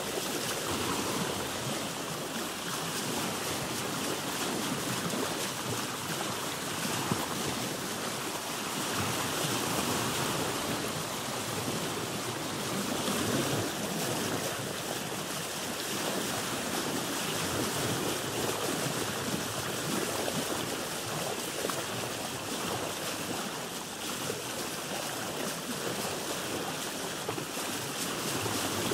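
Sea water washing and lapping around a boat, a steady rushing wash that swells and eases gently every few seconds.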